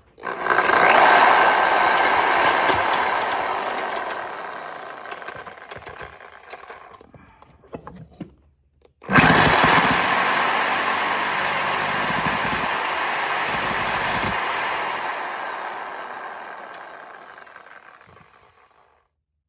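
An electric power cutting tool cutting a metal exhaust pipe piece, run twice: each run starts suddenly and winds down over several seconds, the second about nine seconds in.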